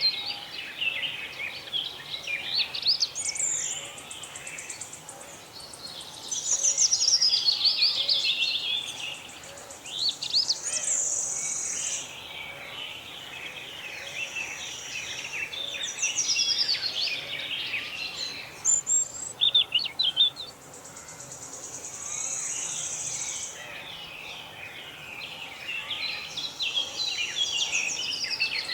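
Several songbirds chirping and calling at once, with quick overlapping notes. A high, steady trill comes and goes every few seconds over the birdsong.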